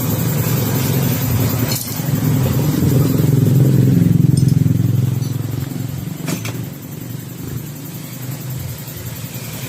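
Honda Click scooter's single-cylinder engine running, rising in a rev about three seconds in and easing back toward idle after about six seconds. Two short clicks sound partway through.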